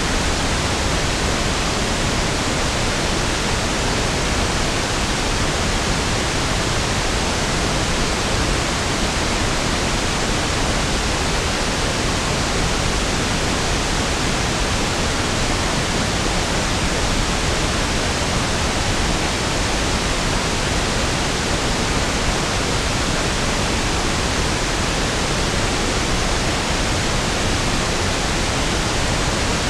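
Steady pink noise (1/f noise): an even, unchanging hiss with equal energy per octave, fuller and smoother in the lows than white noise.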